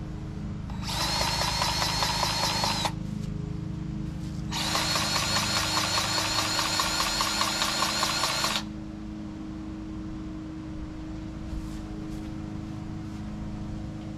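Cordless battery-powered grease gun running in two bursts, one about two seconds and one about four seconds long, pumping grease into the excavator's undercarriage fittings, over a steady low hum.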